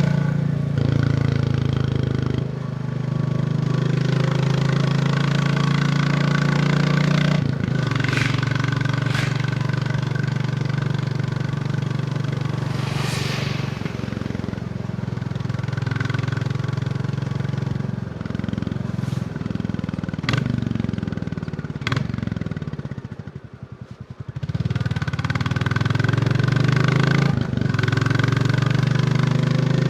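Royal Enfield Bullet 350's single-cylinder engine running under way. About two-thirds through, the engine note falls as the bike slows and drops almost to idle, then picks up again as it accelerates. A few sharp clicks are heard along the way.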